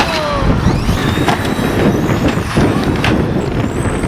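Radio-controlled cars racing, their motors whining and sliding up and down in pitch over a heavy rumble, with a few sharp knocks.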